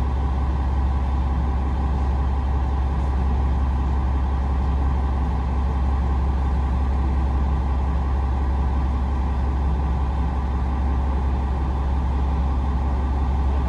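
Inside a KiHa 47 series diesel railcar: a steady low drone from its diesel engine, with the running noise of the carriage.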